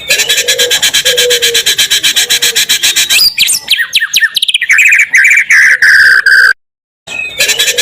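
Loud looped recording of songbird song used as a provoking track for white-rumped shamas: a dense rattle of rapid repeated high notes with whistled phrases. About six and a half seconds in it cuts to a half-second of dead silence, then the same phrase starts again.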